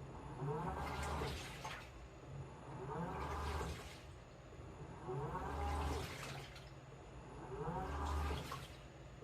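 Washing machine running a wash: the drum turns in short bursts about every two and a half seconds, each with a rising motor whine and water sloshing through the laundry.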